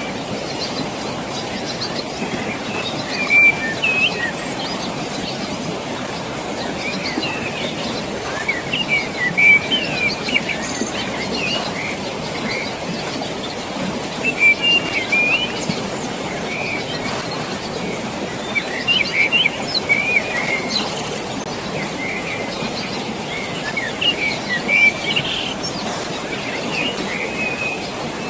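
Steady rushing water with small birds chirping over it in short bursts of calls every few seconds.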